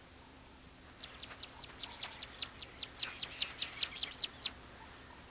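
A bird calling: a run of short, high chirps, about five a second, that starts about a second in, grows louder and then stops.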